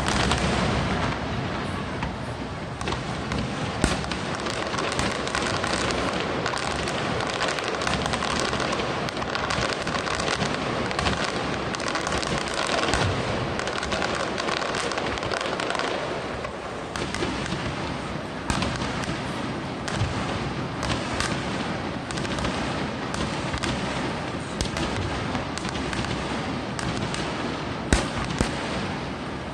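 Fireworks display: a continuous barrage of shells bursting and crackling, with sharper single booms about four seconds in and again near the end.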